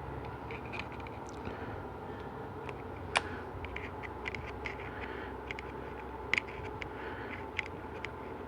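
Small scrapes and clicks of a Teflon seal ring being worked off a GM 4L80E transmission pump, with a few sharper ticks, the loudest about three seconds in and again past six seconds, over a steady background hum.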